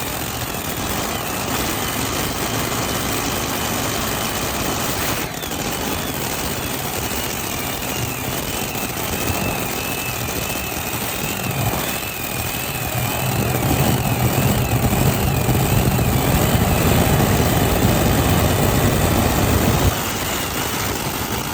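Supercharged modified pulling tractor's engine running, with a wavering high whine over it for several seconds in the middle. About thirteen seconds in it grows louder and heavier, then drops back suddenly near the end.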